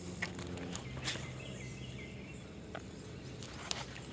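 Birds chirping over a low steady hum, with a few sharp clicks.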